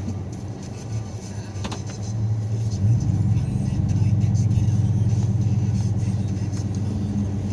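Engine of a snow-plowing vehicle running steadily, then revving up and staying louder about three seconds in.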